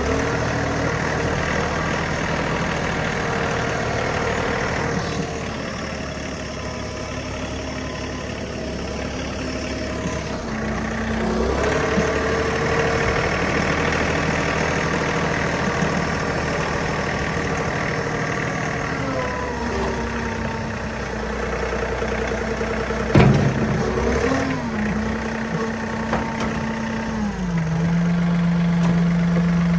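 John Deere 3039R compact tractor's diesel engine running while it moves snow, its engine speed rising and falling several times. A sharp clunk sounds about three quarters of the way through, and near the end the engine settles to a lower, steady note.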